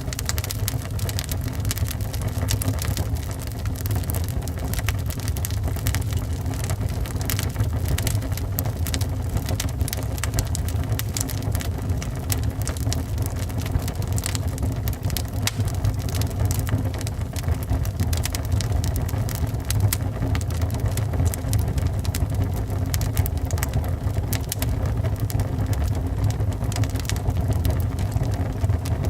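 Wood fire in a fireplace crackling and popping, with many quick irregular snaps over a steady low rumble of burning.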